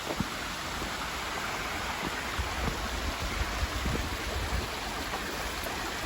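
Small woodland stream running below a footbridge: a steady rush of flowing water that grows slightly louder as it is approached.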